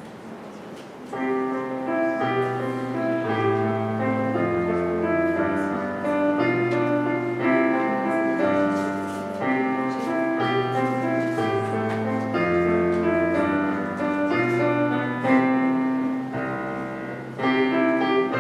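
Solo piano playing a gentle melody over a steady bass line, starting about a second in.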